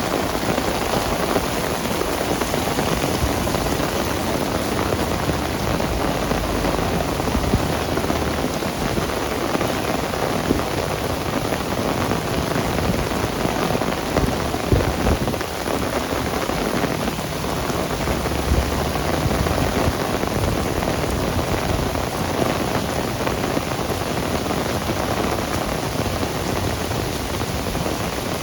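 Heavy rain falling steadily, a dense even hiss of drops on surfaces, with a few brief low rumbles rising under it.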